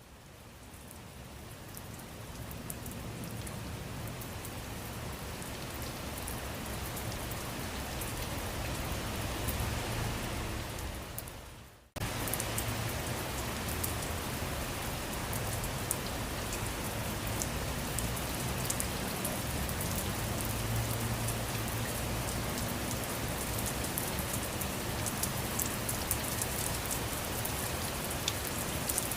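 Steady rain falling, with individual drops pattering throughout. It fades in over the first few seconds, dies away to a brief gap about twelve seconds in, and then comes back suddenly at full strength, like the seam of a looped recording.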